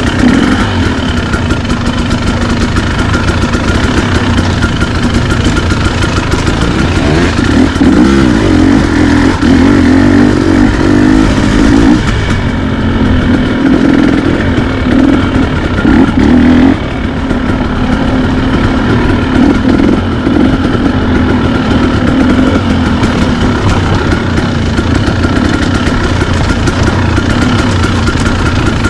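Dirt bike engine running loudly, its revs rising and falling several times in the middle and holding steadier before and after.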